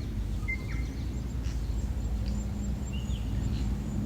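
Outdoor ambience: a steady low rumble with a few short bird chirps, one about half a second in and another near three seconds.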